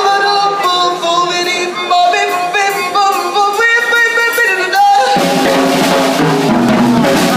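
Live band music: a gliding melody line over drum kit, then the full band with bass comes in about five seconds in.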